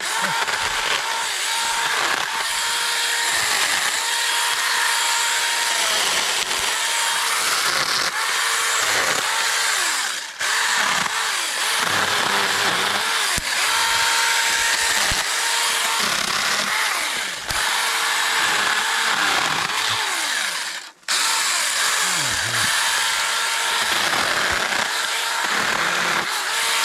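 Seesii CH600 cordless electric mini chainsaw cutting through branches, its motor whine sagging in pitch and recovering again and again as the chain bites under load. It stops briefly twice, about ten seconds in and about twenty-one seconds in.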